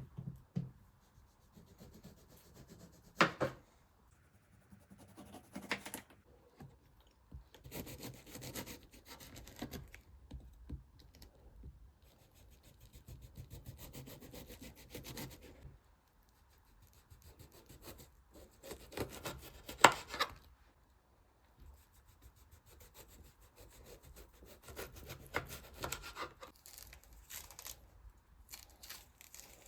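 Intermittent rubbing and scraping noises, with two sharp knocks standing out, one about three seconds in and a louder one about twenty seconds in.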